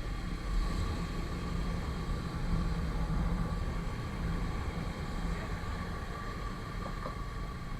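Motorcycle riding along the road: a steady low engine and road rumble mixed with wind noise.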